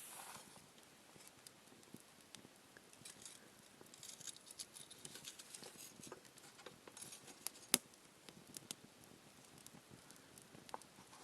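Wood campfire crackling in a small fire stand: many scattered small pops and ticks, with one sharper snap a little under eight seconds in.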